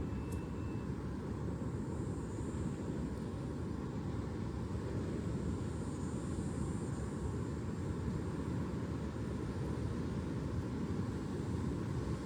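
Steady low rumbling ambient noise with no distinct events, unchanging throughout.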